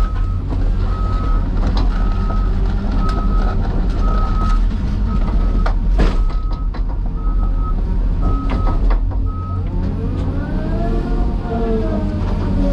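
Heavy diesel machinery running with a loud low rumble while a backup alarm beeps steadily, about one and a half beeps a second, stopping about three quarters through. Scattered metal knocks, one sharp and loud mid-way, and near the end the engine revs up and back down.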